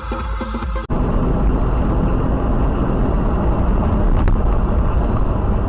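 Music that cuts off abruptly under a second in, followed by the steady road and engine noise of a car driving, with one faint click partway through.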